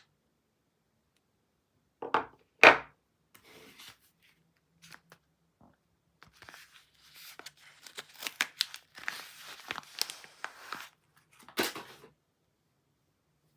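Soap packaging being torn open and crinkled by hand. There are two sharp crackles about two seconds in, the second the loudest. A few scattered crinkles follow, then from about six seconds a steady run of tearing and crinkling that stops about twelve seconds in.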